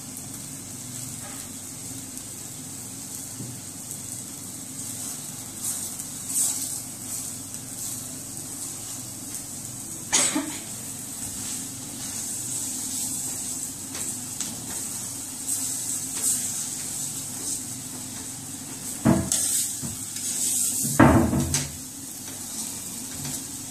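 Butter sizzling steadily under a cheese-stuffed paratha frying on a tawa (flat griddle), with a few sharp knocks and scrapes of a metal spatula against the pan, the loudest cluster near the end.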